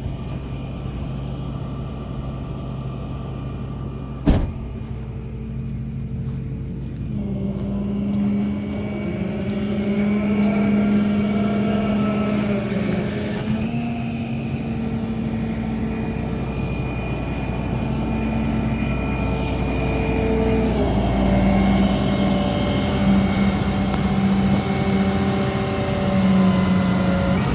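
Tow truck engine running, stepping up in pitch about seven seconds in and holding higher with small rises and dips. There is a single sharp knock about four seconds in.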